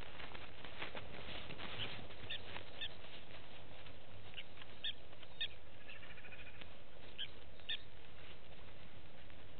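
Short, high bird calls repeated at irregular intervals of about half a second to a second, with a quick rattling trill about six seconds in, over a steady background hiss.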